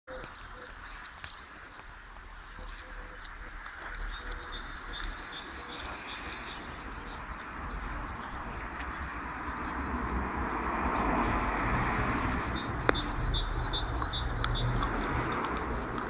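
Small birds chirping and trilling in repeated short phrases, over a steady rushing background noise that grows louder in the second half. One sharp click sounds near the end.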